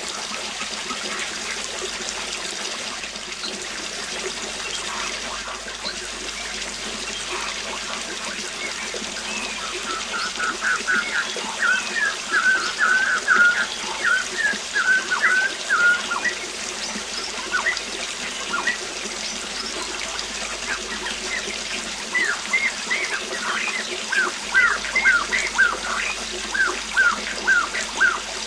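Steady rush of a waterfall with a songbird chirping in quick runs of short notes, busiest in a spell a third of the way in and again near the end.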